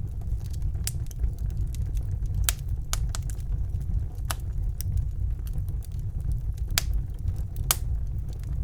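Wood fire burning in a fireplace: a steady low rumble of the flames with irregular crackles and sharp pops of burning logs, a few louder pops scattered through.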